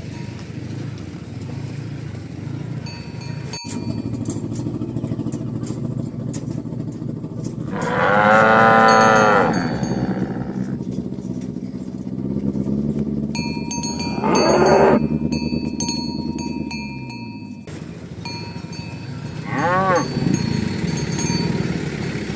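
Cows mooing three times: a long, loud moo about a third of the way in, a shorter one past the middle, and a brief one near the end. Under the calls runs a steady low rumble that dies away about three quarters of the way through.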